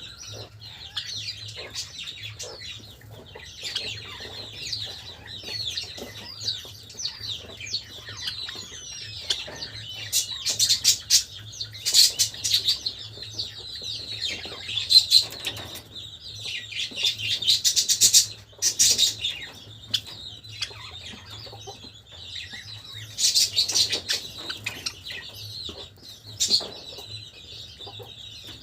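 A group of Java sparrows chattering in dense runs of short high chirps, with louder bursts of calling and wing flapping several times.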